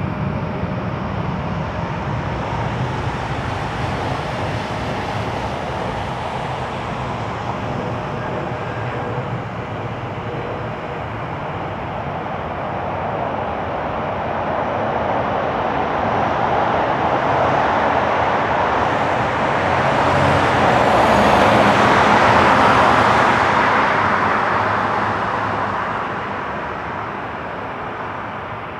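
Airbus A320 jet engines on final approach: a broad rushing noise that builds over several seconds to a peak a little past the middle, then fades as the airliner passes by. A low rumble runs underneath in the first half.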